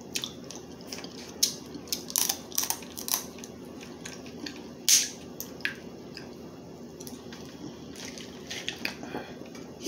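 Close-up eating sounds: scattered short clicks and crackles of crab shell being cracked and wet chewing, with a loud snap about five seconds in.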